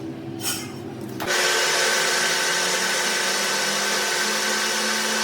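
A power tool switches on about a second in and runs steadily at full speed, with a high steady whine over a loud hiss. Before it starts there are a few light metal clinks.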